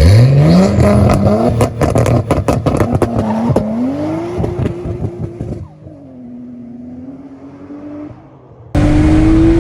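Car engine accelerating hard, its pitch climbing steeply and then rising again in steps, with a run of sharp cracks over it. About halfway through it drops to a much quieter, steadier engine tone, then cuts back in loud near the end.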